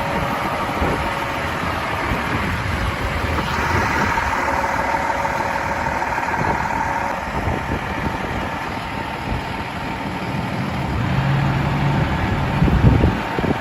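Diesel engine of a 2007 Peterbilt 357 dump truck idling steadily, with a short louder burst near the end.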